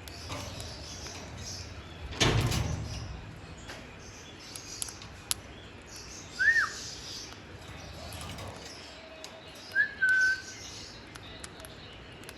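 Pet green parrot whistling twice, one call arching up and falling away, the other a short rising note held level, with faint high chirps and small clicks between. A brief loud rustling thump comes about two seconds in.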